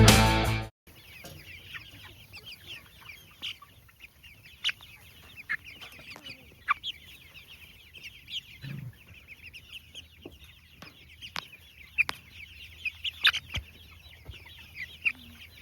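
A flock of broiler chickens peeping and clucking, a steady stream of short high chirps with occasional sharper, louder calls.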